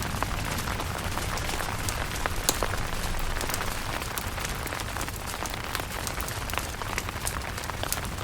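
Steady rain, with many sharp single drop hits standing out against the even hiss of the downpour.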